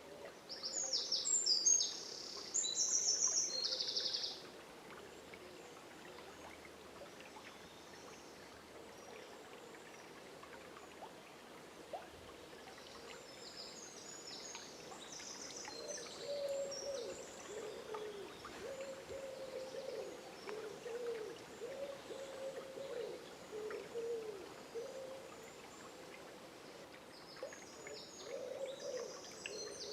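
Dawn chorus in woodland by a river: songbirds sing in short, high bursts near the start, in the middle and near the end. A long series of low, wavering calls runs through the second half, over a faint steady rush of water.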